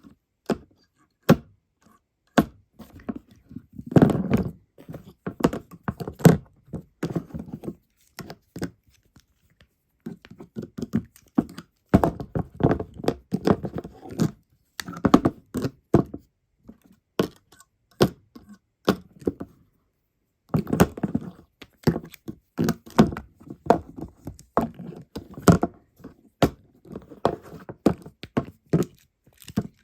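A cicada and a stag beetle grappling, their bodies and legs knocking, tapping and scraping irregularly against a hard surface, with clusters of sharp thunks and short pauses.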